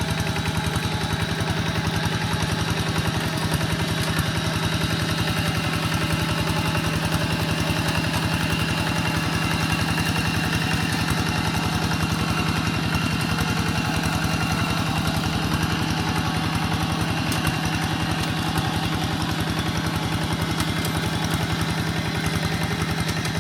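Quick G1000 walking tractor's engine running steadily at an even speed, with a fast, regular pulse of firing strokes.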